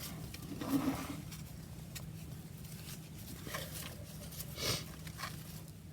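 Paper pieces and card tags being handled and moved about on a work surface, a few brief soft rustles, over a steady low hum.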